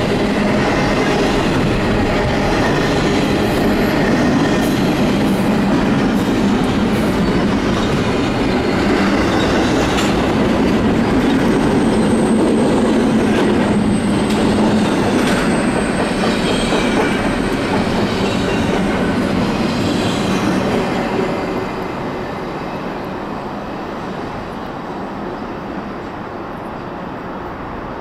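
Double-stack intermodal container train rolling past: a steady rumble of wagon wheels on the rail with clickety-clack over the joints and a thin high wheel squeal in the middle. The sound drops off about three-quarters of the way through as the last car goes by and the train pulls away.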